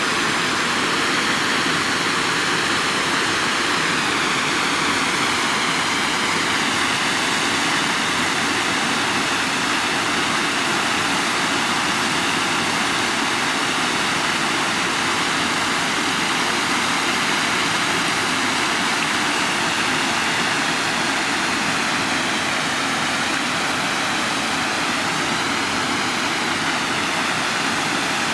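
Flash-flooded creek water rushing past a grist mill, a steady, loud, unbroken rush of water.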